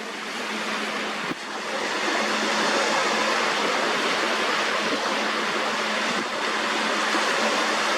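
Steady hiss of sea water washing in over a sandbank shore.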